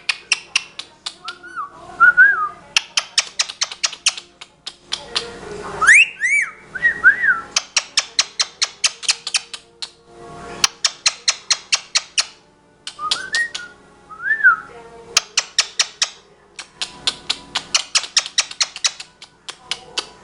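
A pet talking parrot whistling short notes that rise and fall, three times, among long runs of quick sharp clicks at about six a second.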